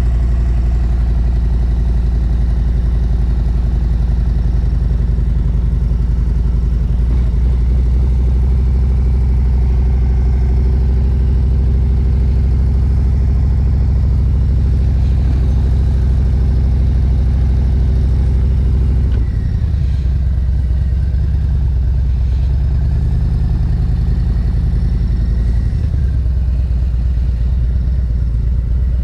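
Motorcycle engine running at low, steady revs, its note changing about two-thirds of the way through.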